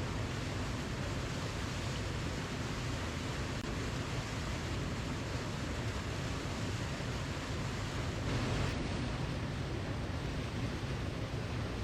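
Waterfall rushing as a steady, even roar of falling water, with a brief slight swell a little past two-thirds of the way through.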